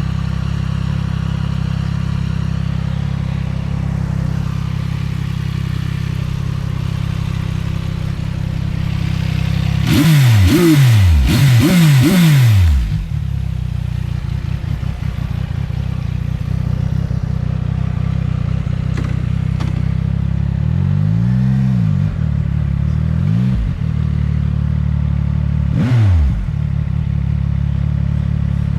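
CFMOTO 675NK's 675 cc three-cylinder engine running steadily under way. About ten seconds in it is at its loudest, the revs climbing and dropping several times in quick succession. A few single rev rises and falls come later.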